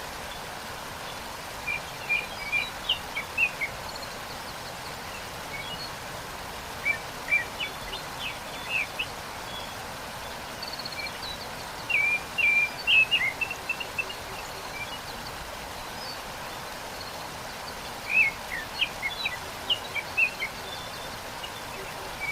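Steady rush of a waterfall, with small birds chirping in short bursts of quick notes every few seconds.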